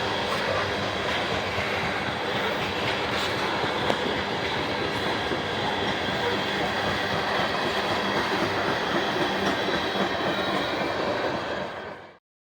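Norfolk Southern train's railcars rolling past, a steady rumble and clatter of wheels on rail with thin, steady high tones running through it. The sound fades and cuts off abruptly near the end.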